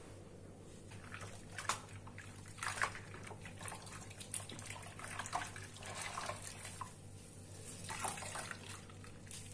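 Water running and splashing at a kitchen sink, in irregular splashes and small clatters, over a steady low hum.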